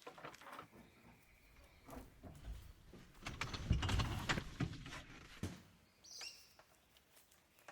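Irregular knocks and clatter, loudest in the middle with a low rumble, and a bird chirping briefly near the end.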